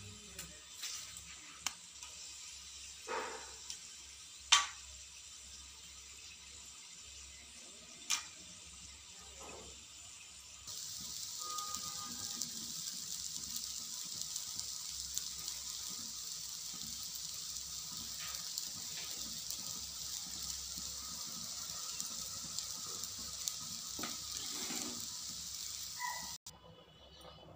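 A few sharp clinks against the pot, then a steady sizzling hiss of rice frying in hot oil that starts suddenly about eleven seconds in and cuts off shortly before the end.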